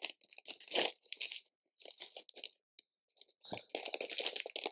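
Hands rummaging through LEGO bricks and parts: irregular plastic clicking, rattling and crinkling, with a short pause about three seconds in.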